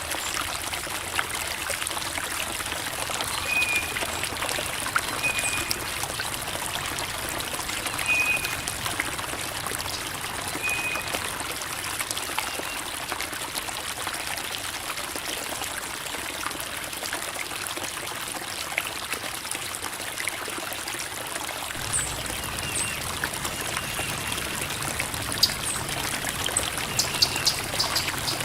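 Small creek flowing over rocks: a steady babbling trickle of running water.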